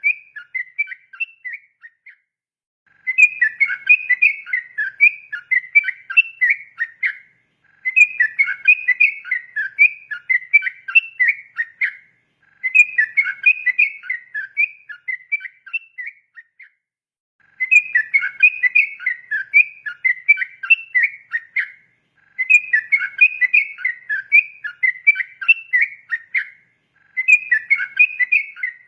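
Yellow-vented bulbul (trucukan) singing its long 'ropel' song: fast runs of bubbly whistled notes in phrases of about four to five seconds, repeated six times with short pauses between them.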